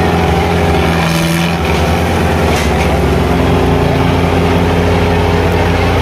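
Tractor diesel engine running steadily at high revs.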